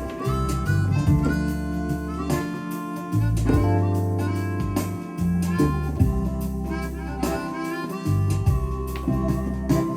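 Korg Pa1000 arranger keyboard playing one of its factory styles: an accompaniment with bass notes and regular drum hits under a melody line.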